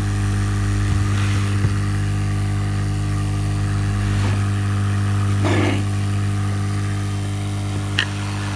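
Lukey 852D+ hot air rework gun's blower running with a steady hum just after being switched off, slowly getting quieter as it runs down. A short rustle comes about five and a half seconds in and a sharp click near the end.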